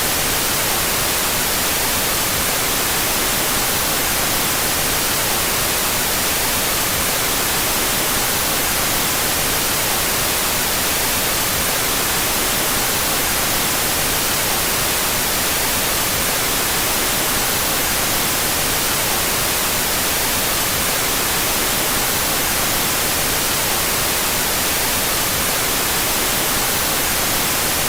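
Out-of-phase white noise: a steady, unchanging hiss, with no breaks or changes in level.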